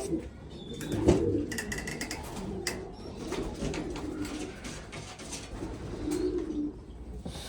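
Domestic pigeons in a loft cooing on and off, among many sharp clicks and taps, with one louder knock about a second in.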